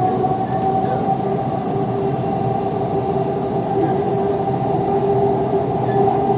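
Kolkata East-West Metro train running between stations, heard from inside the coach: a steady rumble with two held humming tones.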